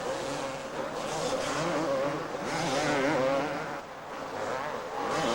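Several two-stroke supercross motorcycles racing, their engines revving hard and overlapping, with pitch rising and falling as they accelerate and back off.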